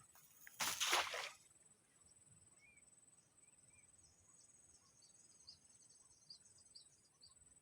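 A single short, loud rush of noise about half a second in, over a steady high insect buzz with faint scattered chirps.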